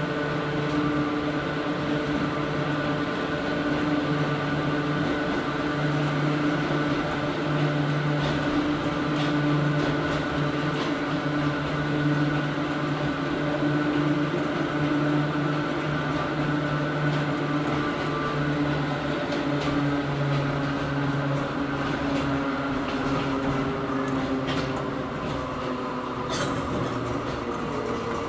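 Hakone Tozan Railway Moha 1 electric car running, heard from inside the car. A steady hum, typical of its nose-suspended (tsurikake) traction motors and gears, rises and falls over the rumble of the wheels, and eases off near the end.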